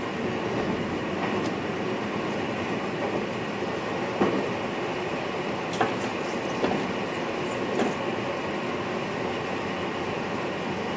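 Cab of an NS VIRM double-deck electric train running along the line: a steady rolling rumble, with four short sharp knocks from the wheels over the track in the middle part.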